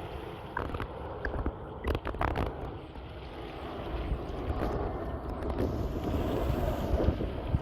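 Airbus A321 jet airliner on approach, its engine rumble growing louder as it draws nearer, with wind buffeting the microphone.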